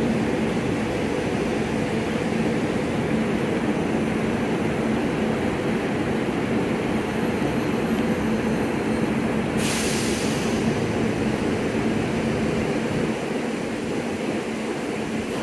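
SEPTA Regional Rail electric railcars standing at the platform with their air conditioning and auxiliary equipment running: a steady hum with one held tone. About ten seconds in, a short burst of air hiss, like an air release from the train's pneumatic system.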